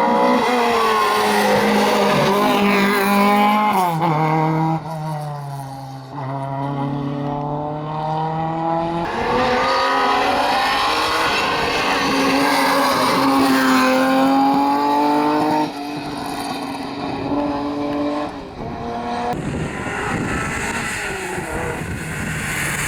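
Rally cars driven hard on a special stage, one after another. Each engine revs up and drops as the driver shifts gears and brakes for corners.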